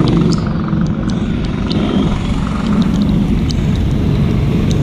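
Racing kart engines running, a steady low drone with short sharp ticks scattered through it.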